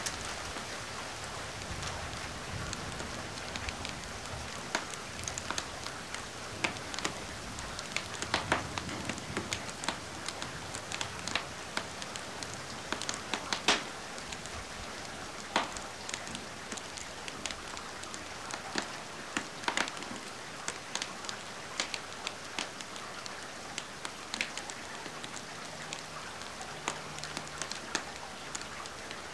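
Steady rain hiss mixed with a wood fire crackling, with frequent irregular sharp pops and snaps over the rain.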